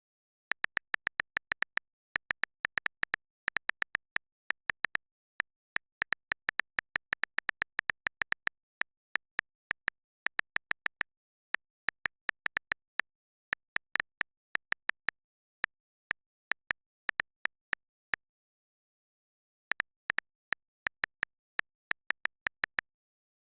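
A long series of sharp, very short clicks, several a second in irregular clusters with brief pauses between them, over dead silence.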